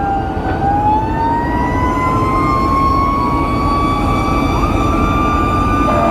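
Fire engine siren wailing over the truck's engine and road noise. The siren's pitch dips just after the start, then climbs slowly for several seconds. A second steady tone joins near the end.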